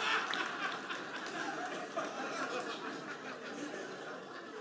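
Audience laughing after a joke, the laughter dying away gradually.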